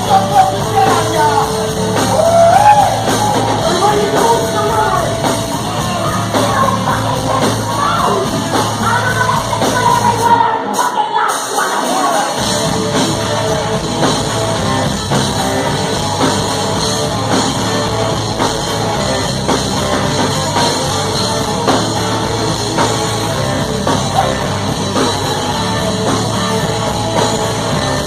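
Live rock band playing through a venue PA, guitar and bass with vocals. The bass end drops out for about two seconds near the middle, then comes back in.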